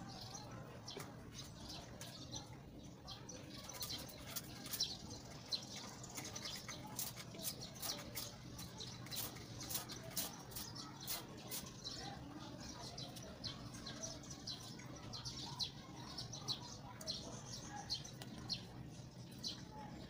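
Small birds chirping in the background: many short, high chirps in quick, irregular runs, over a low steady hum.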